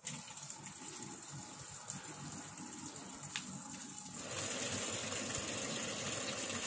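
Washing machine filling with water after being started, water gushing into the tub; the sound steps up in level about four seconds in.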